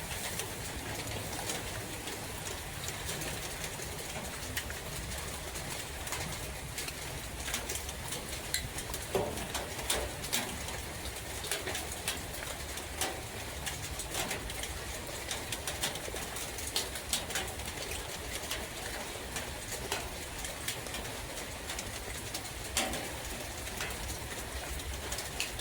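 Steady rain falling in a forest, with many sharp drips, and a dove cooing a few times in short low calls.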